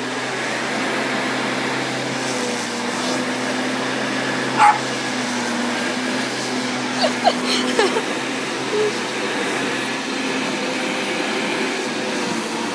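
A lawnmower runs with a steady hum while a dog barks: one sharp bark a little under five seconds in, then a quick run of three or four short barks and yips around seven to eight seconds in.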